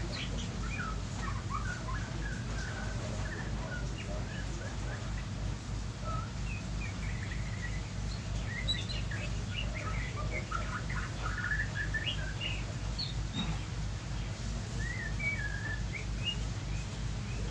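Small birds chirping in many short, scattered calls over a steady low hum.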